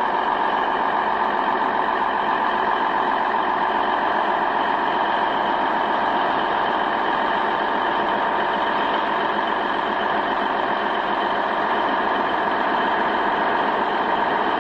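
Heavy vehicle engine running steadily under load, a constant drone with a steady whine on top.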